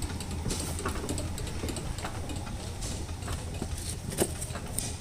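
An engine running steadily in the background, with a few light clicks and knocks, the sharpest about four seconds in.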